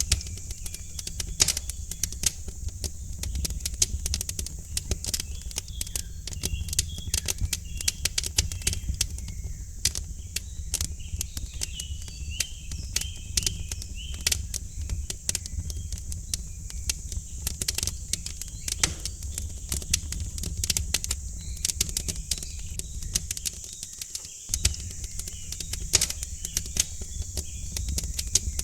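Wood fire crackling in a fireplace: irregular sharp pops and snaps over a low, steady rumble of the burning fire, with small birds chirping faintly in the background.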